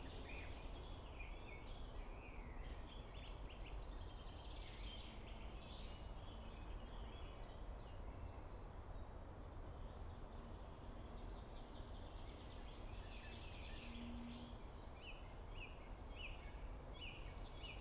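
Several songbirds singing at once in a forest, overlapping chirps, trills and whistled phrases, with a run of short, repeated falling notes near the end. A steady low rumble runs underneath.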